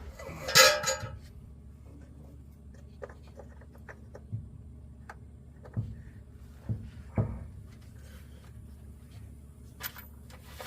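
Hand work on truck parts: scattered light clicks and knocks, with a brief scraping rustle about half a second in, over a low steady hum.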